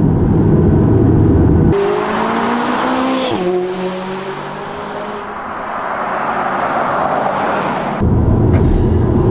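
McLaren 570GT's twin-turbo V8 under hard acceleration: a deep, loud rumble, then an engine note climbing in pitch that drops sharply at an upshift about three seconds in and pulls on lower, easing off and building again before the deep rumble returns near the end.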